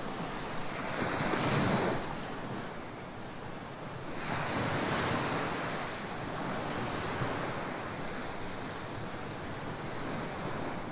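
Ocean waves breaking on a tropical beach: two louder surges of surf, about a second and about four seconds in, over a steady wash of water.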